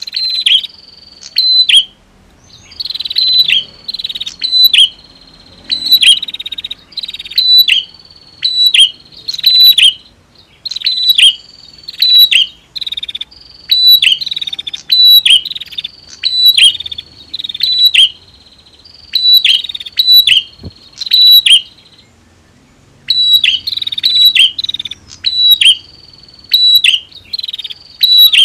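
Prinias (prenjak) calling: loud, sharp, high chirping notes repeated in quick runs of several, phrase after phrase with short pauses between.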